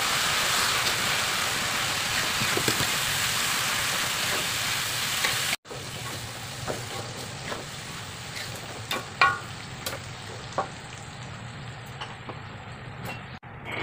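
Blended chilli-and-shallot spice paste sizzling steadily in hot oil in an aluminium wok. About five and a half seconds in, it changes to quieter frying as fried tempeh chips are tossed in the glaze, with a metal spatula scraping and clicking against the wok now and then.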